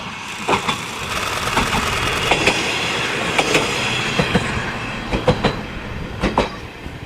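KiHa 52 diesel railcar running along the track, its wheels clattering over rail joints in a series of sharp clicks above the steady running noise.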